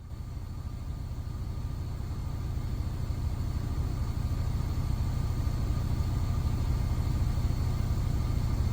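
A truck's engine idling, heard from inside the cab: a steady low rumble that jumps up at the start and then grows gradually louder.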